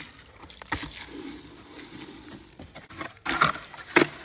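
Postcrete being mixed with water in a bucket, with a sharp knock under a second in and a few louder knocks near the end.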